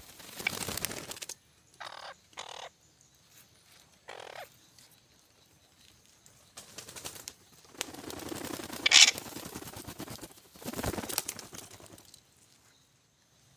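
Parrots giving a series of harsh, raspy squawks: a few short calls, then a longer, louder stretch of squawking about two-thirds of the way through.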